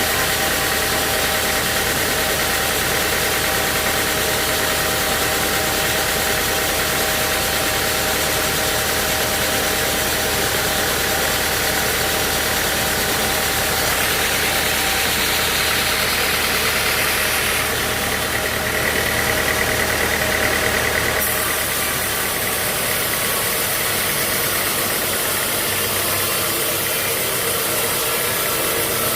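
Sawmill machinery running steadily: an engine with a constant mechanical noise and a steady whine. The sound shifts in character a few times, about 14, 18 and 21 seconds in.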